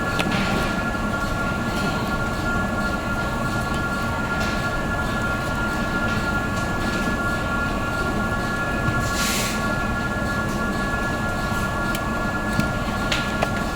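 Steady mechanical hum with a few high, steady whining tones, broken by occasional small clicks and a short hiss about nine seconds in.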